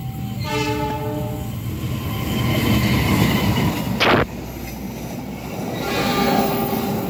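KAI CC 206 diesel-electric locomotive sounding its multi-tone horn for about a second as it nears, then the train running past with a steady rumble of wheels on rail. A brief loud burst about four seconds in as the locomotive draws level, and the horn sounds again, fainter, near the end as the coaches go by.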